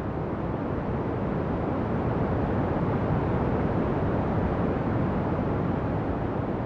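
Ocean waves breaking and washing in, a continuous rush of surf that swells a little in the middle and eases slightly toward the end.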